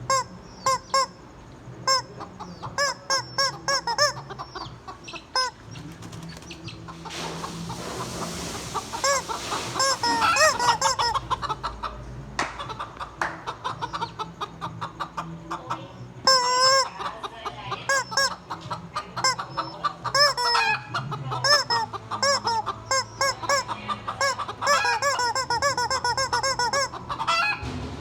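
Flock of hens clucking, many short rising-and-falling calls in quick succession. A rushing hiss comes in for a few seconds about a quarter of the way in.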